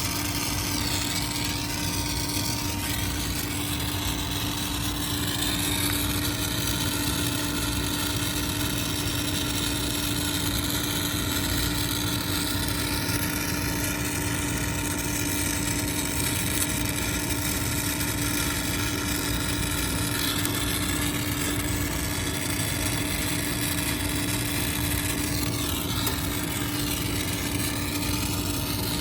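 A motor-driven machine running steadily, with a constant low hum.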